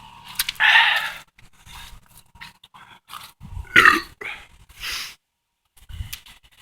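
A man breathes out hard after chugging malt liquor, then lets out a loud burp about four seconds in.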